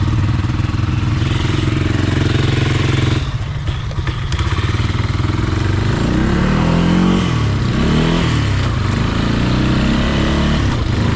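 Vehicle engine running close by and loud, easing off briefly about three seconds in, then revving up and down several times.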